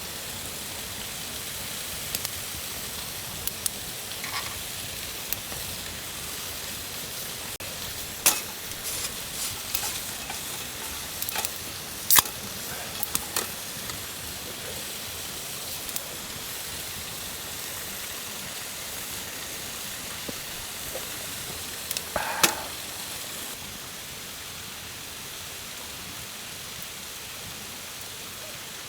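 Food sizzling as it fries in a pan, a steady hiss, with a few sharp clicks and knocks of utensils now and then.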